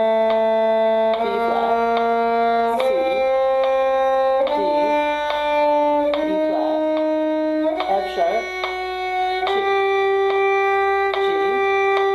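A bowed string instrument playing a G harmonic minor scale in slow half notes, one sustained note about every 1.7 seconds, stepping up the scale.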